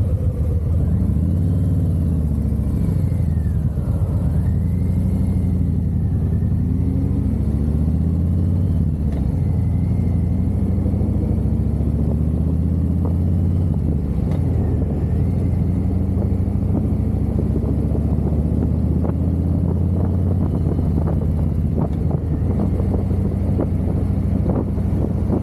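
Harley-Davidson V-twin motorcycle engine running under way, its pitch rising and falling through the first several seconds as it accelerates and shifts gears, then holding steady while cruising.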